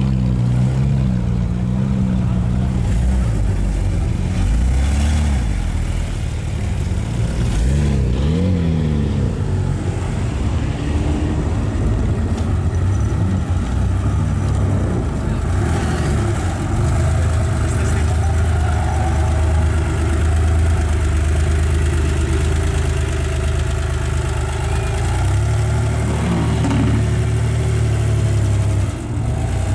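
Sports car engine running through its exhaust with a low, steady rumble, blipped up in short revs twice.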